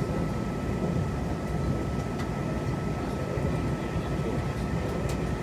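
Interior running noise of a Taiwan Railways Tze-Chiang push-pull express coach in motion: a steady low rumble with a thin constant high whine and a few faint ticks.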